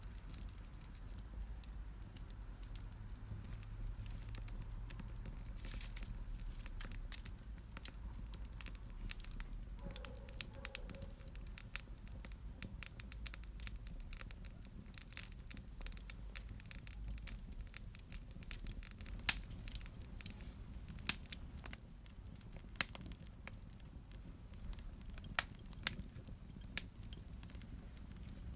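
Wood fire in a fireplace crackling, with irregular sharp pops and snaps over a low steady rumble of the flames. The loudest pops come in the second half.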